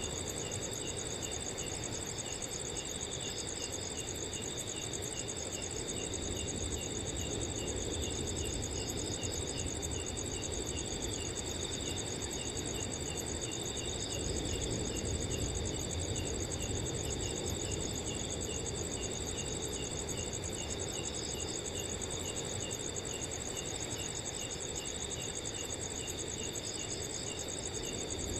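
Several crickets trilling steadily in high, fast-pulsing trills. One lower-pitched cricket chirps regularly, about twice a second, over a steady low rush of wind.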